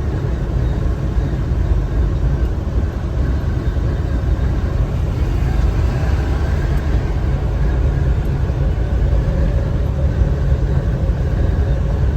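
Steady road noise inside a car's cabin at highway speed: a low, even drone of tyres and engine with no breaks.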